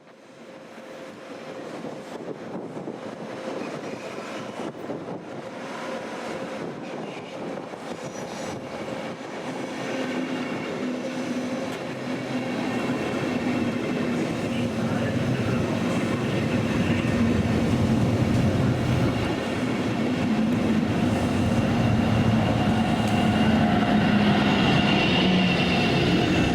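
Electric locomotive-hauled passenger train, its sound growing steadily louder over about twenty seconds: a rumble of wheels on the track with steady whining tones over it.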